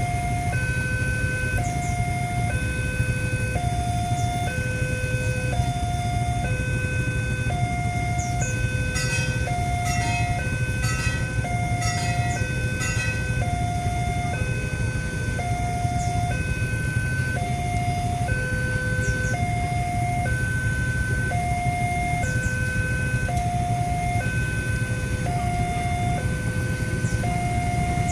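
Indonesian railway level-crossing warning alarm of the Westinghouse type, sounding two tones that alternate steadily, high then low, each lasting just under a second, over a low rumble of waiting traffic.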